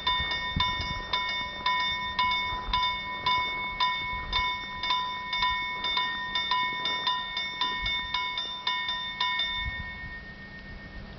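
Railway level crossing warning bell ringing with rapid, evenly spaced strikes, about three a second, then falling silent about ten seconds in. The low rumble of the passing freight train fades under it in the first seconds.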